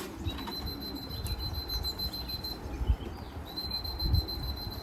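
A steady high-pitched tone held for about two seconds, then sounding again for about a second near the end, over an uneven low rumble.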